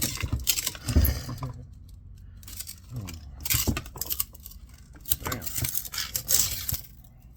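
Metal clinking and scraping as a tool works at the steel, magnet-lined rotor of a speed reducer motor, in three short bouts.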